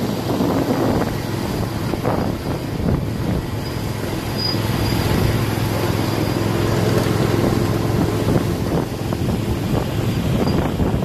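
1/8-scale ride-on miniature train running along 7½-inch gauge track: a steady running hum with a few faint knocks from the wheels and track.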